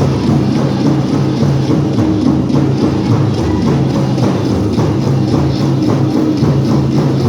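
Powwow drum group beating a big drum in a steady beat while the singers sing, with jingling bells mixed in like those worn by prairie chicken dancers.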